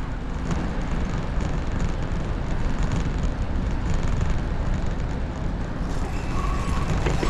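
Steady rushing noise of a bicycle in motion: wind buffeting the microphone and tyres rolling on the path. Faint high tones join about six seconds in.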